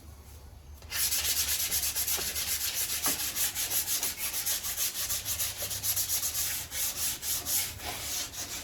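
Sandpaper rubbed by hand in rapid back-and-forth strokes over a steel car body panel, scrubbing off light surface rust; the strokes start about a second in.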